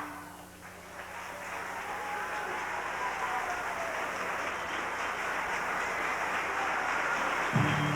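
Audience applauding in a school auditorium, starting thin and swelling to steady clapping. Music begins again near the end.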